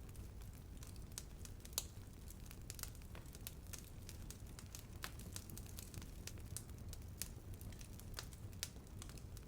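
Bonfire burning, a steady low rumble of the flames with dense, irregular crackling and snapping of burning wood, one louder pop just under two seconds in.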